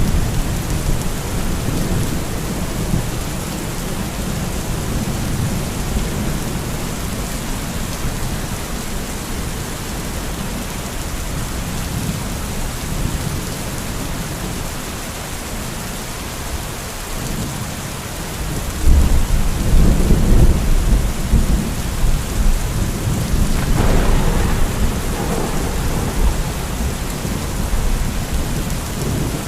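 Thunderstorm: steady heavy rain with rolling thunder, a louder deep rumble building about two-thirds of the way through and a sharper crack a few seconds later.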